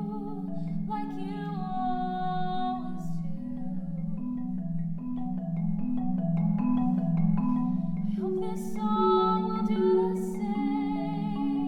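Music: a marimba plays a steady, repeating low pattern of notes, with a sustained, slightly wavering higher melody line above it.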